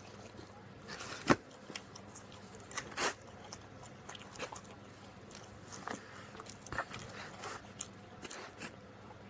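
A man eating pizza close to the microphone: chewing and biting, with scattered soft crunches and mouth clicks, the sharpest about a second in.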